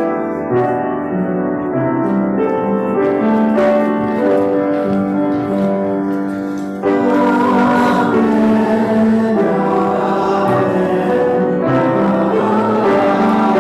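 Piano music played as the closing music after the benediction, with held notes, growing louder and fuller about seven seconds in.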